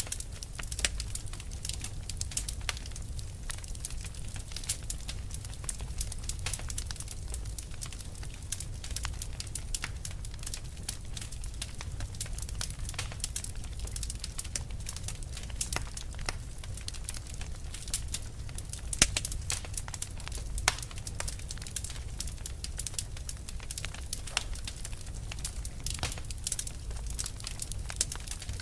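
Burning fire crackling: a dense, irregular run of sharp pops and snaps over a low steady rumble, with a couple of louder pops past the middle.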